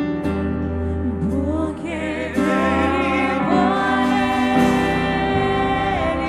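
Live gospel worship music: a sustained keyboard chord bed with bass under a singing voice whose held, wavering notes grow louder about two seconds in.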